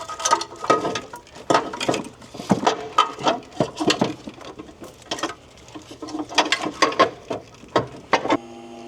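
Irregular metallic clicks and clinks of hand tools and bolts as a bracket is fitted to a car's rear engine mount, with ratchet-like clicking. A steady hum starts near the end.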